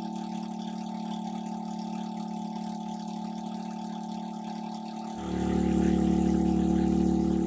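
An engine running steadily, which becomes suddenly louder and deeper about five seconds in.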